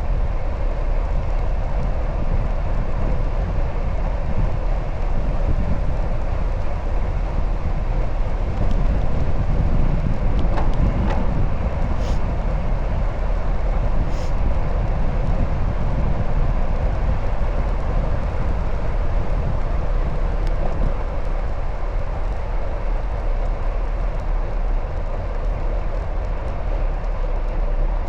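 Steady wind buffeting the microphone, mixed with road noise from riding a bicycle, with a couple of brief clicks about twelve and fourteen seconds in.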